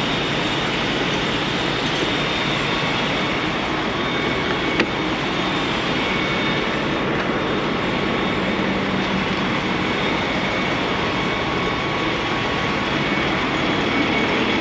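Semi-truck driving on a snowy highway: steady engine, tyre and wind noise, with one faint tick about five seconds in.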